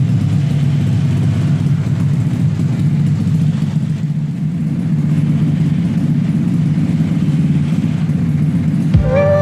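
Small carburetted petrol engine of a mini Supra replica car running steadily at idle through its newly fitted exhaust. Music starts near the end.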